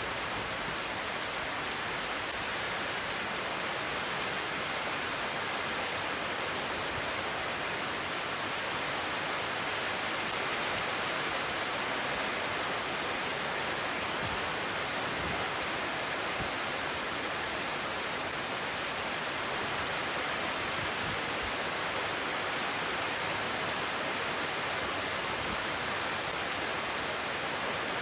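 Steady rain falling, an even, dense hiss that holds constant throughout.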